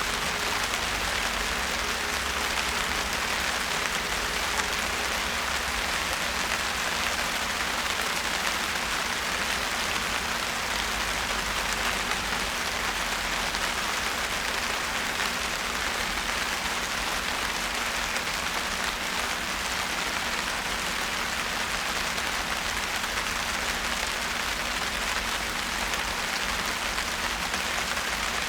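Steady rain falling, a dense even patter of drops that keeps up without a break.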